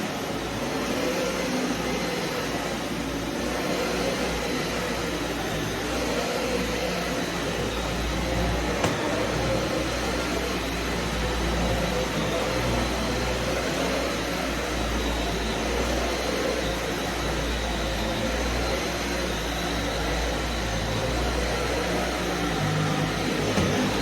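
Vacuum cleaner running steadily, with a low rumble and a thin high whine.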